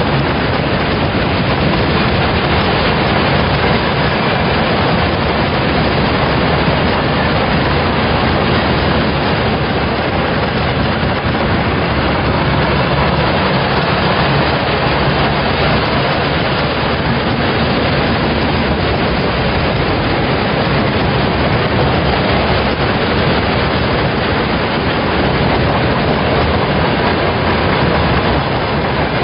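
A long freight train of railway tank wagons rolling past at close range: a steady, loud rush and rumble of wheels on rail.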